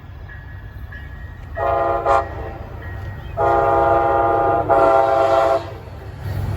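Amtrak locomotive air horn sounding four blasts, two short then two long, over the low rumble of the approaching train.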